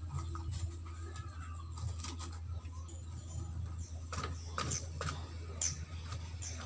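A steady low hum, with scattered short clicks and light knocks that come more often in the second half.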